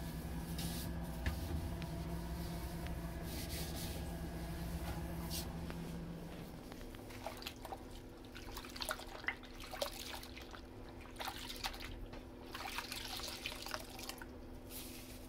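Wet cloth wiping inside a refrigerator, with water trickling and dripping from the rag. A steady low hum stops about six seconds in, leaving scattered small drips and clicks.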